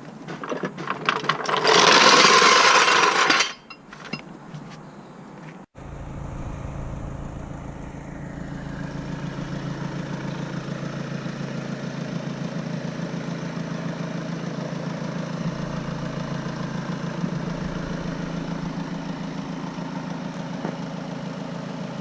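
Audi A3 1.6 TDI four-cylinder diesel engine idling steadily. Earlier there are a few clicks and a loud hissing burst lasting about two seconds.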